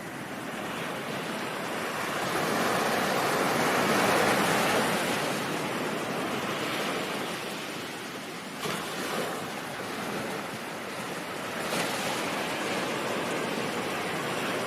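Ocean surf: a wave swells to its loudest about four seconds in and then washes back, with two brief sharper splashes later on.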